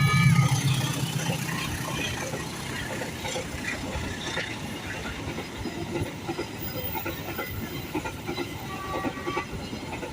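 Kaligung passenger train passing over the level crossing: steady rumble of the cars with wheels clattering over rail joints. The tail of a horn blast ends about half a second in.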